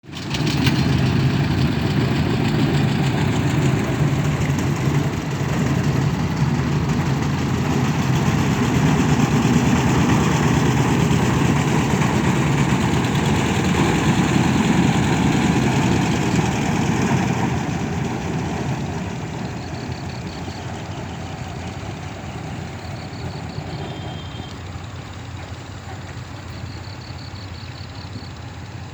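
Engine of a small river ferry boat running steadily, loud for the first seventeen seconds or so, then dropping away and running on more quietly.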